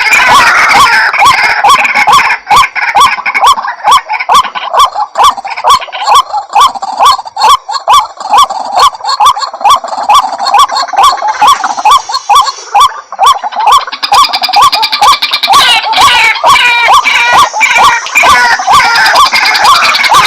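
White-breasted waterhen calling in a fast, unbroken run of repeated notes, with many sharp clicks among them. It is a lure-call recording used to draw waterhens in.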